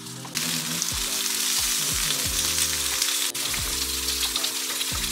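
Zucchini slices and asparagus sizzling in hot oil in a frying pan, a loud steady hiss that sets in just after the start.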